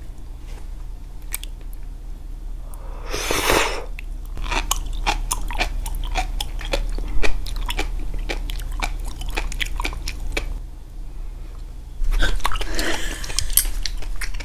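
Close-up chewing of sea grapes: a quick run of small crisp pops as the beads burst between the teeth. A louder breathy sound comes about three seconds in and again near the end.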